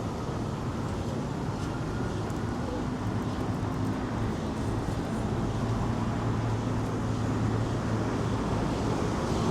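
Steady city street ambience: a continuous wash of traffic noise with a low, steady engine-like hum underneath.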